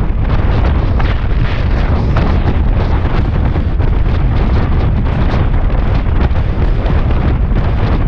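Heavy wind buffeting on the microphone of a Suzuki Bandit 650S being ridden at road speed, with the bike's inline-four engine running underneath. The sound is a steady, loud, low rumble.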